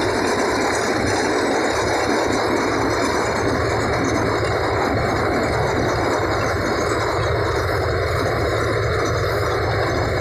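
Kubota mini harvester running steadily, a loud, even mechanical noise of engine and machinery with no let-up.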